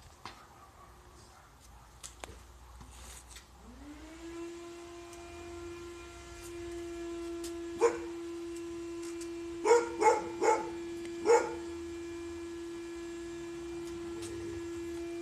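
A dog barks five times in short, loud bursts, once and then in a quick run of four, over a steady tone that slides up in pitch a few seconds in and then holds.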